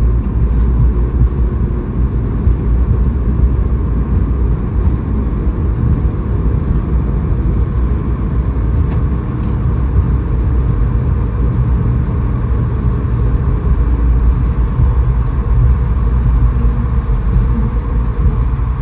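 Steady low rumble of an Airbus A220-300 heard from inside the cabin, with a few brief high, wavering squeaks near the end.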